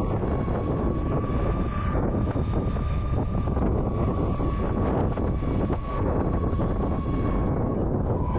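Wind rushing over the microphone while riding a Monday Motorbikes Gateway 500 W electric motorbike, with a thin, steady high whine from the electric motor.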